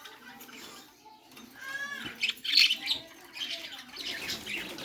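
A large bird calling with a string of loud, harsh squawks starting about one and a half seconds in.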